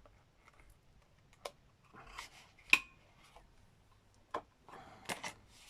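Kitchen scissors snipping and small craft items being handled on a table: a few separate sharp clicks and knocks, the loudest one with a short ring about two and three-quarter seconds in, and a quick cluster of clicks near the end.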